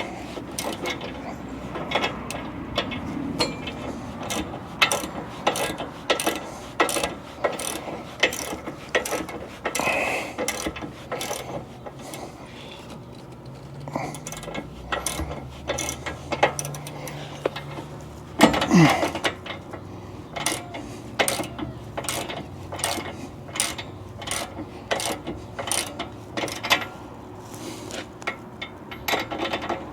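Hand wrench working a nut in short back-and-forth strokes: a long run of sharp metallic clicks about once or twice a second, like a ratchet pawl, more evenly paced in the second half.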